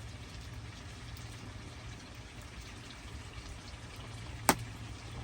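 Steady watery hiss with faint scattered ticks, and one sharp click about four and a half seconds in.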